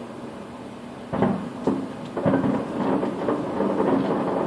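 Distant fireworks shells bursting: quiet for about a second, then two booms a second or so in, and from about two seconds on a continuous run of overlapping booms and rumbling crackle.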